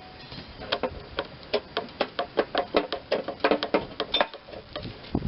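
A quick run of light metal-on-metal taps and knocks, about five a second with a short ring, stopping about four seconds in: a tool working at a stuck pulley on a mower deck spindle to free it.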